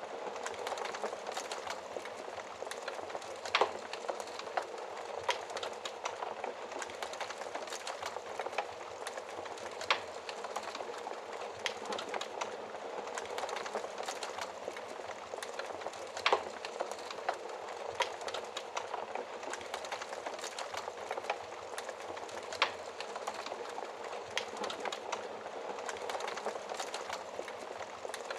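Wood fire crackling in a fireplace: a steady hiss with frequent small pops and a handful of louder, sharper snaps scattered through.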